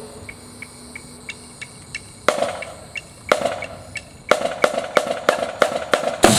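Repeated sharp knocks, hammer-like: faint light ticks about three a second at first, then louder knocks, one every second, speeding up to about three a second near the end.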